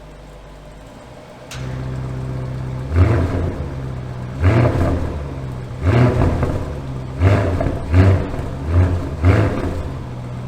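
Audi RS6 C8's 4.0-litre twin-turbo V8, through a mid-pipe-delete X-pipe exhaust, comes in about a second and a half in after a sharp click and settles into a deep idle. It is then revved in about seven short throttle blips, each rising and falling back to idle.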